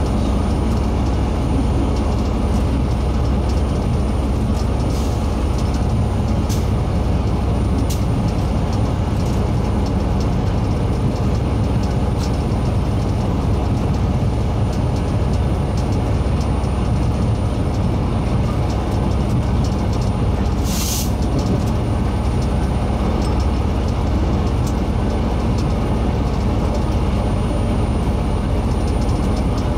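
Train hauled by steam locomotive CT273 and diesel-electric locomotive R123 running along the line: a steady low rumble of locomotive and wheels on the rails. A short hiss cuts in about two-thirds of the way through.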